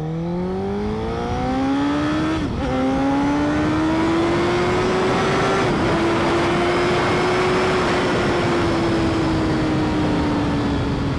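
2008 Honda CBR1000RR's inline-four engine accelerating hard, its pitch rising and dropping sharply at two upshifts, then holding at a steady cruise and easing slightly near the end, with heavy wind noise over the microphone.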